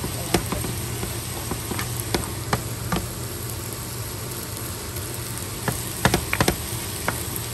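Fried rice sizzling in a pan over a steady low hum, with scattered clicks and scrapes of a wooden spoon stirring it against the pan, most of them about six seconds in.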